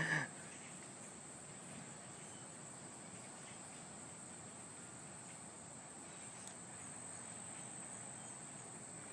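Steady, high-pitched insect chorus, like crickets trilling, continuing unbroken.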